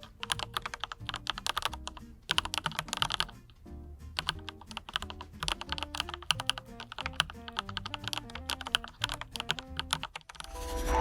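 Fast typing on a mechanical keyboard with Autumn Rain switches and PBT double-shot keycaps, keystrokes clacking in bursts with short pauses, over background music. The typing stops about ten seconds in as the music grows louder.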